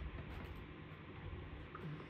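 Quiet room tone: a faint steady hiss with a low hum, and no distinct event.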